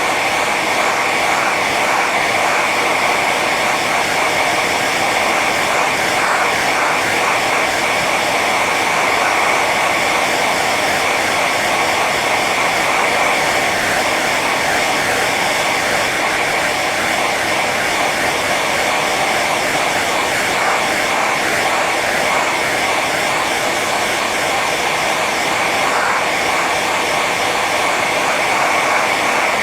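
Hair dryer running steadily on its high setting: a constant rush of blown air with a steady high whine from the fan motor.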